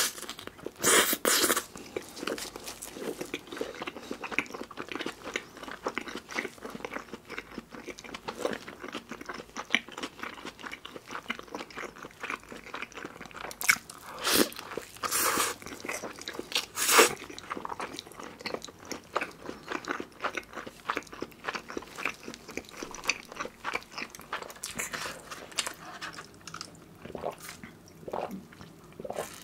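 Close-miked bites and chewing of a burger with thick whole-strip bacon: loud crunching bites about a second in and again around 14 to 17 seconds, with steady chewing between.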